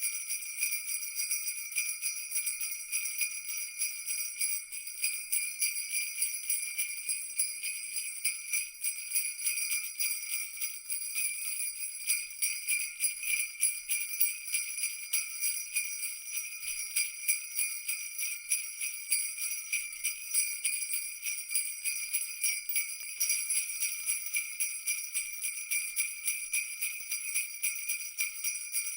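Jingle bells shaken continuously in a fast, even jingle, with a bright, high ringing and no pauses.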